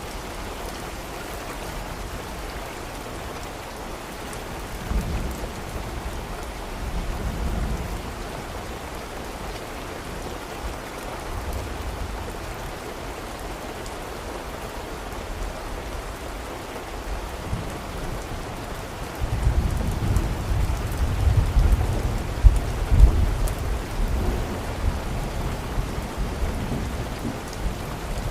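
Steady rain falling, with rolling thunder underneath: short low rumbles about five and seven seconds in, and a longer, louder roll of thunder about two-thirds of the way through.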